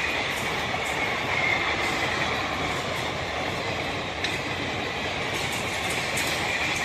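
Passenger train coaches running past at speed on the rails: a steady rush of wheel-on-rail noise with a high hiss and a few sharp clicks of wheels over rail joints.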